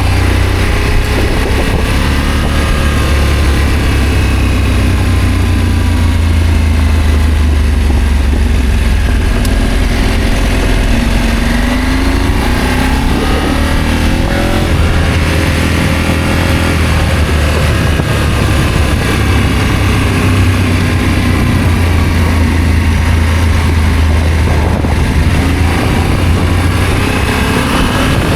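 Adventure motorcycle engine running on the move, its pitch rising and falling as the throttle and gears change, over a heavy steady low rumble.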